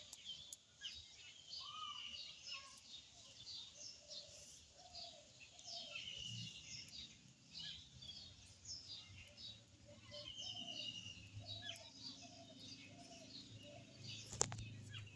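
Many small birds chirping and twittering busily, with a row of short lower calls repeating underneath. A single sharp click sounds near the end.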